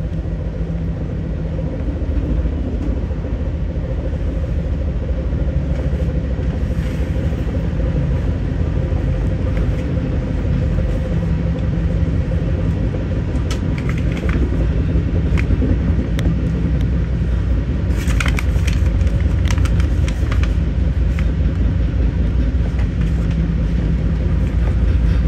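Metra commuter train running at speed, heard from inside the passenger car: a steady low rumble of wheels on rail with a constant hum. Short rattling clicks come twice, about halfway through and a few seconds later.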